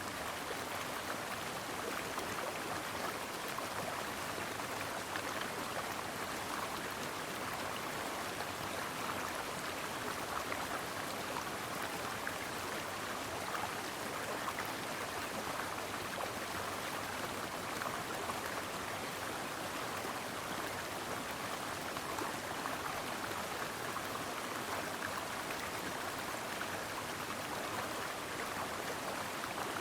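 Stream water flowing and babbling steadily, an even rushing noise with no breaks.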